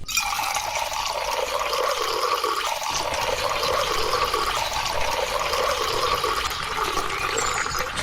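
Water pouring steadily from a miniature model hand pump and splashing into water below, a continuous stream that starts abruptly.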